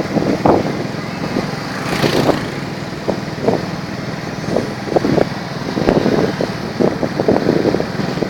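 Small motorbike engine running while riding, with uneven road and air noise and a brief hiss about two seconds in.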